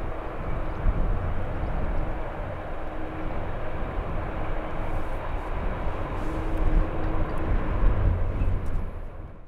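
Jet airliner engines running with a steady whine, the sound cut off abruptly at the end. Strong wind gusts buffet the microphone.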